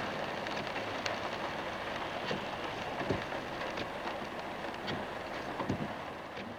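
Heavy rain on a moving car, with tyres hissing on the wet road: a steady rushing noise with scattered sharp drop ticks.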